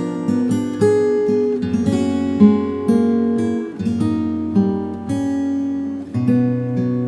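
Acoustic guitar playing slow, calm instrumental music: plucked notes, a new one about every half second, ringing out over held bass notes.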